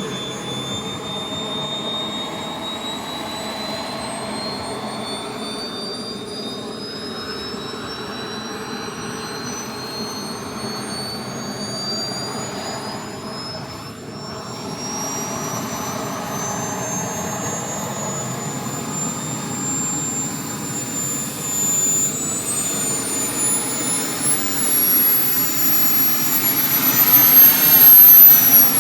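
Small RC model jet turbine, a Kingtech 320, running with a high whine that climbs steadily in pitch as it spools up. A second rising whine joins in the last few seconds, and the sound is loudest just before the end.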